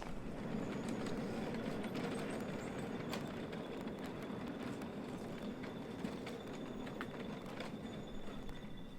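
A 5-inch gauge model train with wagons rolling along the track: a steady rumble of wheels on rail with scattered sharp clicks.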